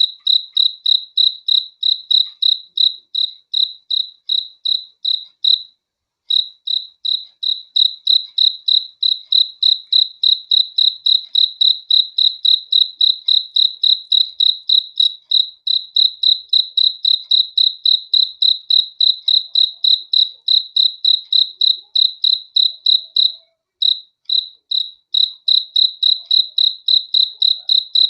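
A cricket chirping, one high-pitched chirp after another at a steady pace of about three a second. There is a brief pause about six seconds in and another about three-quarters of the way through.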